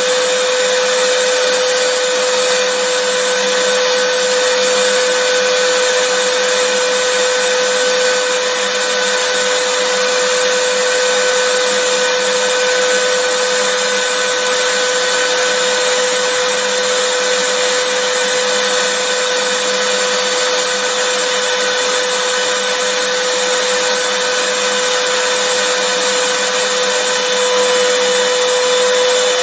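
Vacuum cleaner running steadily: a constant rushing of air with a fixed motor whine, unchanging throughout.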